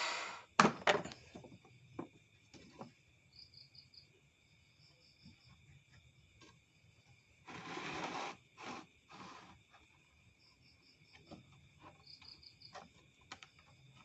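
Insects chirring steadily in the background, with short pulsed chirps in groups of four. Over this come scattered faint knocks and clicks of handling, and a longer rustle about eight seconds in.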